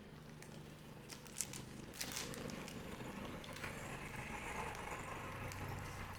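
Trading card booster packs being handled: a few sharp clicks and taps, then crinkling of a pack wrapper from about halfway in.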